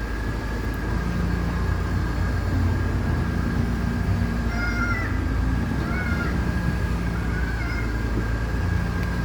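Mercedes-Benz A160's four-cylinder engine idling with a steady low rumble and a constant thin high whine, while the steering is turned. About halfway through come three short squeaks that rise and fall in pitch.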